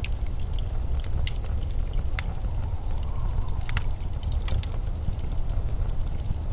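Steady low rumble of blizzard wind, with scattered sharp crackles and a faint whistle in the middle.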